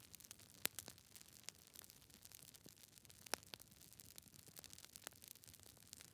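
Wood fire in a fireplace, logs crackling: scattered sharp pops at irregular intervals, two louder ones about a second in and past three seconds, over a soft hiss.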